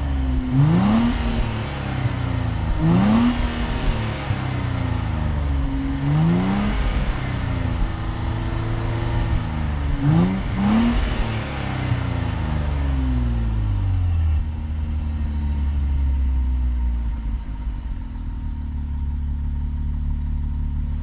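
Nissan Z's 3.0-litre twin-turbo V6 accelerating hard through the gears. The engine note climbs and drops back at each upshift, four or five times, then falls away about halfway through and settles to a steady drone.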